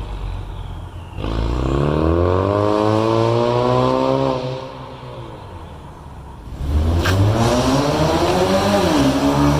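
Ford Mustang 2.3 EcoBoost's turbocharged four-cylinder engine through a full stainless-steel exhaust with custom downpipe, accelerating: the note rises for about three seconds, eases off for about two, then pulls again. A brief sharp click comes about seven seconds in, and the pitch drops near the end as it shifts up.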